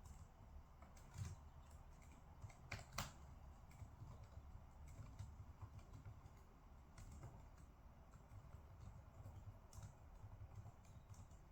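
Faint computer keyboard typing: irregular, scattered key clicks, with a couple of louder clicks about a second and three seconds in.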